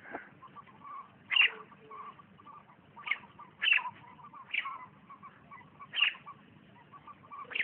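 Short, sharp bird calls, about six of them spaced a second or so apart, with softer chirping in between.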